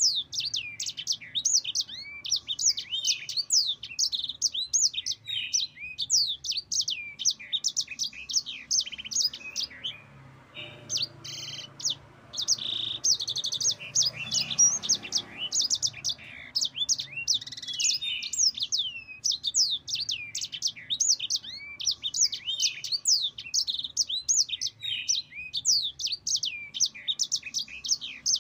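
Yellow-fronted canary singing without pause: rapid high chirps and sweeping notes, with a longer rolling trill about halfway through.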